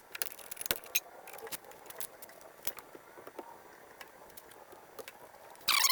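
Scattered light clicks and clinks of metal tools at work on a brake caliper, then near the end a loud squeaking, rasping scrape starts.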